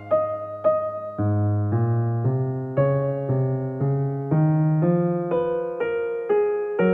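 Soft background music: a slow, gentle electric piano melody of single notes, about two a second, each fading out over held low bass notes.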